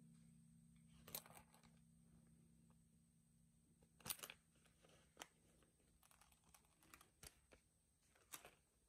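Near silence: a faint low hum fading away, with a few scattered faint clicks.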